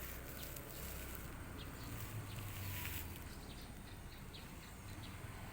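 Outdoor ambience: a steady low rumble under an even hiss, with scattered faint short chirps.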